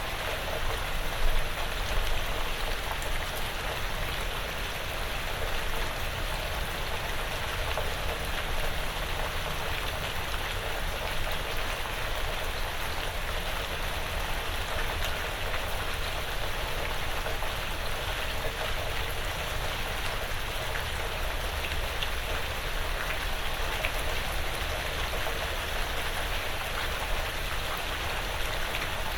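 Steady rain falling on a porch roof and the surrounding woods, with individual drops ticking here and there.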